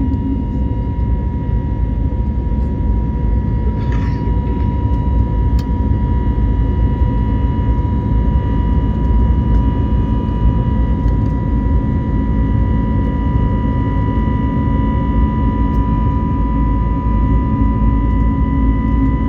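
Airbus A321neo cabin noise in flight: a steady engine and airflow rumble with a steady whine from the engines. About four seconds in there is a brief, higher sound.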